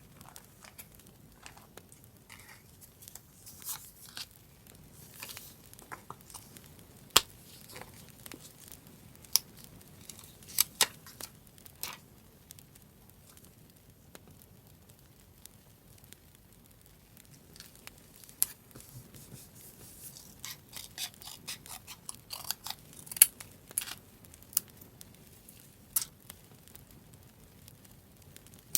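Paper handled for journaling: tearing, snipping and crinkling, with scattered sharp clicks and crackles and a quieter stretch in the middle.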